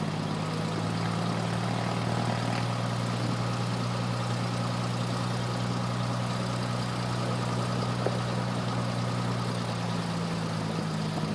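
Cessna 172F's Continental O-300 six-cylinder engine running steadily at low taxi power, a constant low drone heard inside the cockpit.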